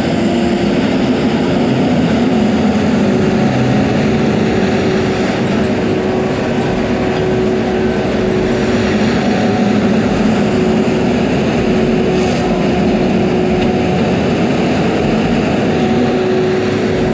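Heavy equipment's diesel engine running steadily under load, with a steady whine over the engine noise.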